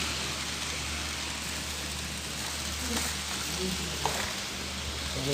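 Steady hiss of background noise in a busy exhibition hall, with a low hum and faint voices in the distance; a small click about four seconds in.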